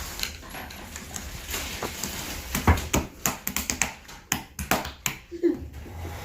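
A quick, irregular run of sharp clicks and snaps, like small objects being handled.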